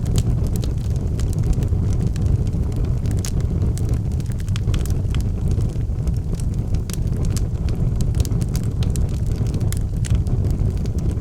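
Wood fire burning in a fireplace: a steady low roar of flames with frequent, irregular sharp crackles and pops from the burning logs.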